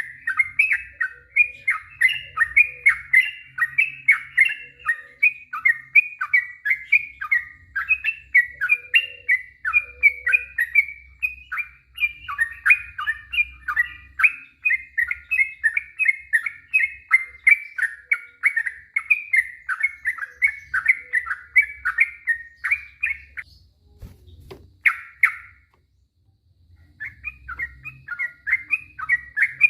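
Yellow-vented bulbul (trucuk) singing a long, rapid run of quick bubbling chirps, several a second, in the long unbroken style keepers call "ropel panjang". The song breaks off near the end, gives one short burst, then starts up again.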